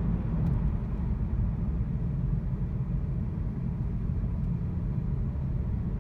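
Volkswagen engine misfiring while the car is driven, a steady low rumble mixed with road noise that never lets up.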